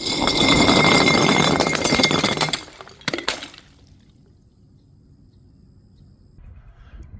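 Glass smashing: a loud shatter with many pieces cracking and tinkling for about two and a half seconds, then a second, shorter crash about three seconds in.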